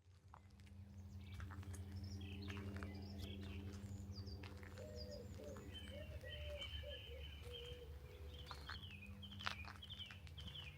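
Country birdsong: several small birds chirping and calling, with a lower wavering call a few seconds in, over a faint steady low hum. The sound fades in over the first second or two, and there is a sharp click about nine and a half seconds in.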